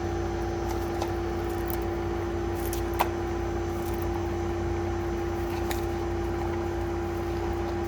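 Steady machine hum with a constant tone, and a faint click about three seconds in.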